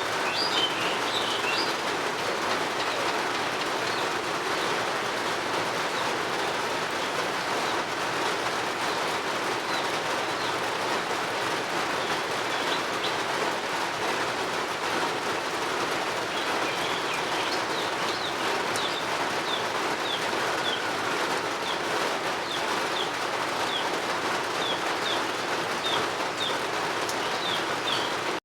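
Steady rain falling, with birds chirping. A bird calls in a quick burst at the start, and from about halfway on a bird repeats a short, high note about twice a second.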